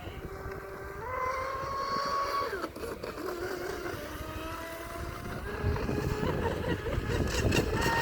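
Sonicwake V2 RC speedboat's brushless electric motor whining at speed, its pitch rising and falling with the throttle, over wind rumble, getting louder and rougher near the end.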